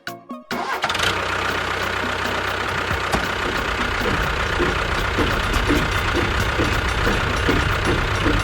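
An engine starts about half a second in and then runs steadily with a low rumble and a regular pulsing beat.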